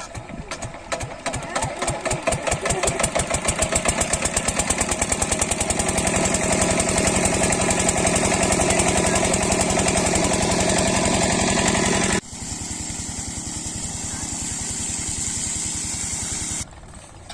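8 hp diesel water-pump engine starting: separate firing beats speed up over the first few seconds, then it settles into a steady run. About twelve seconds in the sound drops abruptly to a quieter steady running note.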